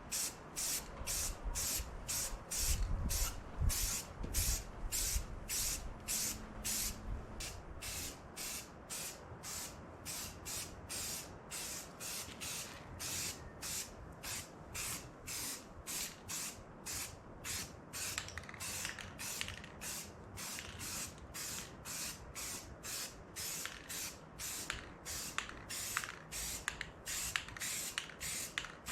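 Aerosol can of Rust-Oleum fast-drying primer sprayed in short hissing bursts, about two a second, over and over. Some low bumps and rumble a few seconds in.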